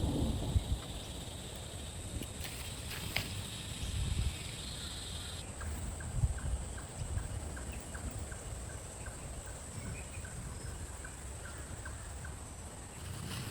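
Outdoor ambience with an uneven low rumble of wind. A faint steady high buzz stops about five seconds in, and a run of faint, evenly spaced ticks follows, about two or three a second.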